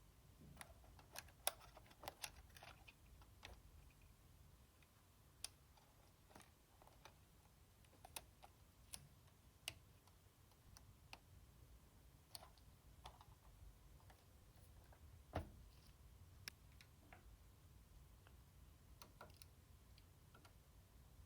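Light, irregular clicks and taps of small tools and console parts being handled: a quick cluster in the first few seconds, then single taps every second or two, with a duller knock about 15 seconds in.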